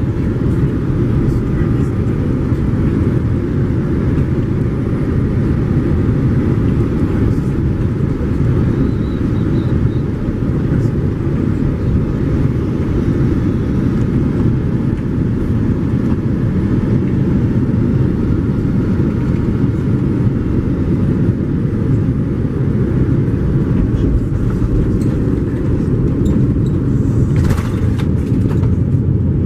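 Steady low rumble inside the cabin of a Boeing 787-9 airliner during landing: engine and airflow noise from a window seat, with a brief hiss about 27 seconds in.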